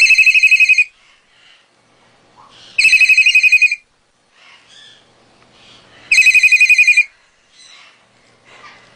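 Telephone ringing with a trilling electronic ring: three rings, each a quick warble about a second long, about three seconds apart.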